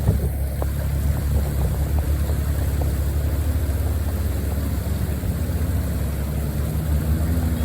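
Can-Am off-road vehicle's engine running steadily as it drives along the trail, a constant low drone with a couple of light knocks about a second in.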